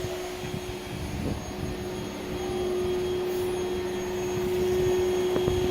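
Vacuum cleaner running, a steady motor hum with one held tone over a rushing noise, growing slightly louder toward the end.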